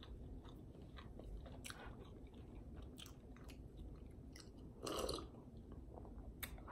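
Close-miked chewing with small wet mouth clicks, then a louder sip from a mug about five seconds in.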